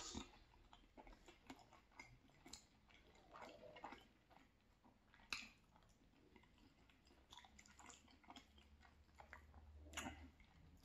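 Quiet close-miked chewing of a mouthful of cheesy penne pasta: soft wet mouth clicks and smacks. Near the end a metal fork taps and scrapes in the pan.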